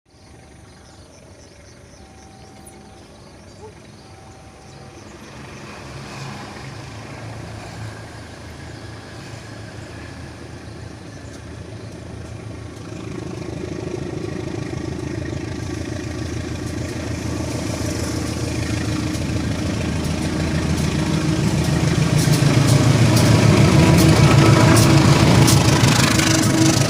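A train's engine running with a fine, regular pulsing, growing steadily louder until it is loudest near the end.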